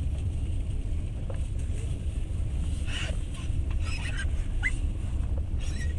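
Passenger train running, heard from inside the carriage: a steady low rumble of the wheels on the rails. A few short high squeaks and creaks come in the second half.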